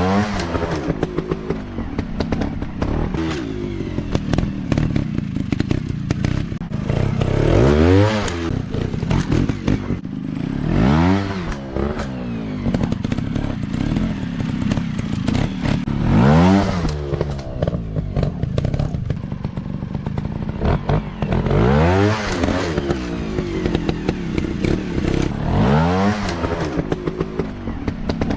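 Small 150 cc dirt bike engines running, blipped up about six times, each rev rising sharply in pitch and falling back, over a steady run of clicks and rattles.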